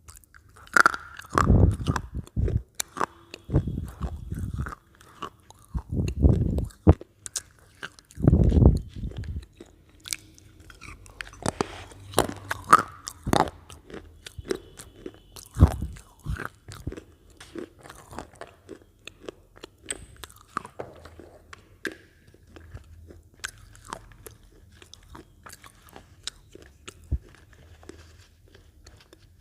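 Close-miked biting and chewing of Lay's potato chips: about five loud, full crunches in the first ten seconds, then many smaller, sharper crunches that fade as the mouthful is chewed down.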